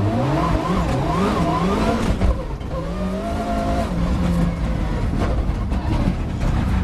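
Inside a Mitsubishi Lancer Evo rally car, its turbocharged four-cylinder engine revs hard and climbs in pitch through quick upshifts as the car accelerates. There is a sharp bang a little over two seconds in. The engine then holds steadier and drops in pitch as the car slows for the next corner.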